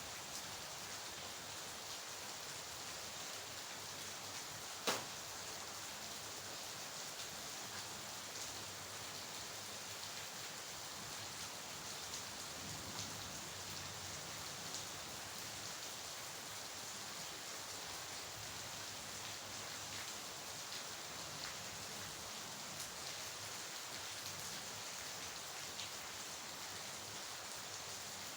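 Steady rain falling, with scattered individual drops ticking on a surface. One sharp click stands out about five seconds in.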